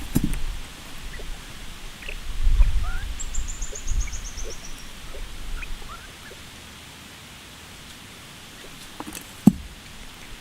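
Outdoor ambience with scattered short bird chirps and a quick, high descending trill, over a faint steady hiss. Low rumbling comes and goes in the first half, and a single sharp knock sounds near the end.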